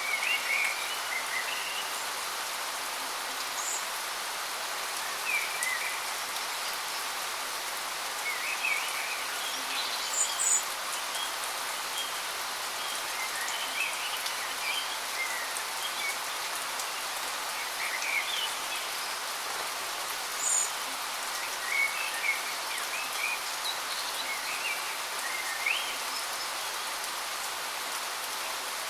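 Steady rush of falling water from a waterfall, with birds chirping and calling in short, scattered phrases throughout.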